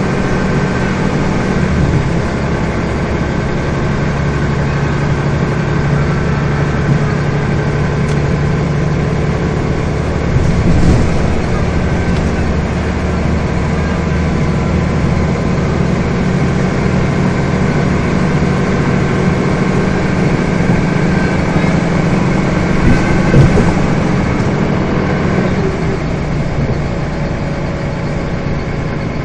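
Scania bus's diesel engine running steadily while the bus is under way, heard from on board with road and body noise. The engine note shifts about two seconds in and again near the end.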